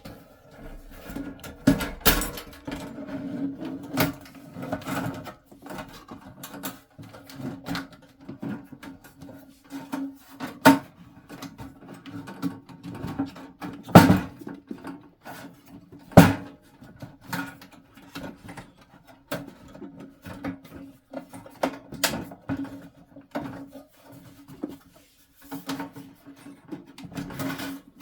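Irregular knocks, clicks and clanks from the diesel heater's metal case being set in place and fastened, the sharpest about 14 and 16 seconds in, over a steady low hum.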